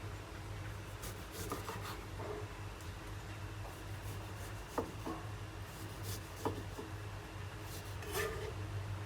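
Kitchen handling noises: rubbing and scraping with a few sharp light knocks in the middle, over a steady low hum.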